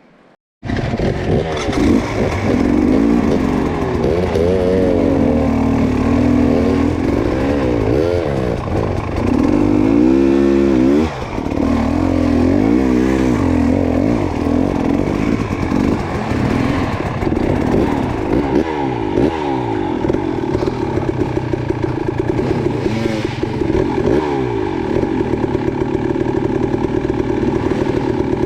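Dirt bike engine starting abruptly about half a second in, then running hard with the throttle blipped over and over, its pitch rising and falling again and again as it works through rough ground; near the end it holds a steadier, higher drone.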